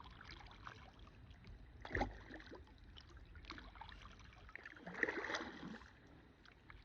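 Kayak paddle strokes in lake water, with splashing and dripping off the blades. There is a sharp knock or splash about two seconds in and a louder splash around five seconds in.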